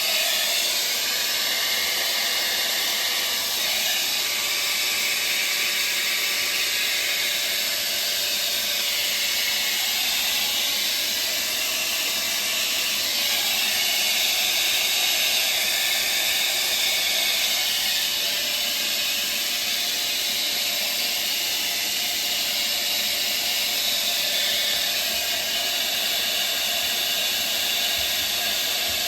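Hair blow dryer running steadily with a strong airy hiss, melting ice built up on a refrigerator's evaporator coil to defrost it.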